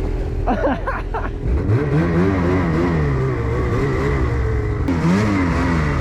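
Snowmobile engine revving, its pitch climbing sharply about a second and a half in and then swinging up and down again and again under the throttle.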